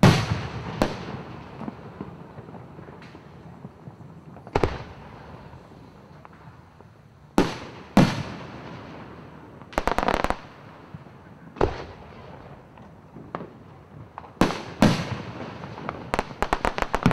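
Aerial firework shells bursting: single sharp bangs every few seconds, each trailing off in a rumbling echo, with two quick runs of rapid crackling pops, one about ten seconds in and one near the end.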